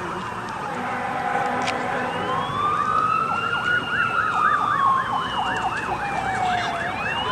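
Two emergency vehicle sirens sounding together: one a slow wail rising and falling over several seconds, the other joining with a fast yelp of about three cycles a second, as responders arrive at a crash scene.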